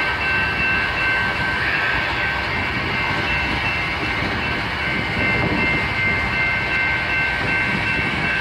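Freight train rumbling steadily, with a few thin high-pitched tones held throughout.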